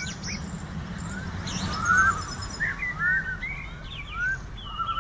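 Several birds calling and chirping, with short rising whistles and rapid trilled chirps overlapping, over a low steady rumble.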